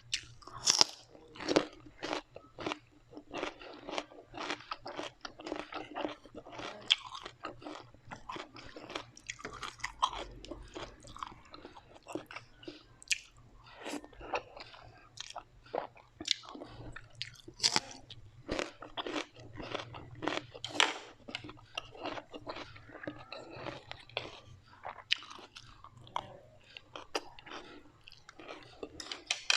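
Close-miked chewing of crispy fried food: a steady run of sharp, irregular crunches and bites, several a second, with the wetter sounds of mastication between them.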